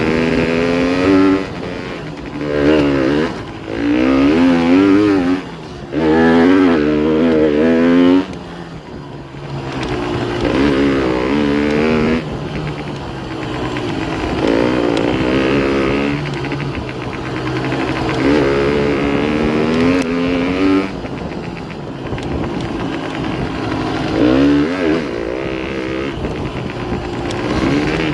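Honda CRM125R's two-stroke single-cylinder engine revving up and dropping back over and over as the dirt bike is ridden, its pitch climbing and falling many times, with a quieter stretch about eight seconds in.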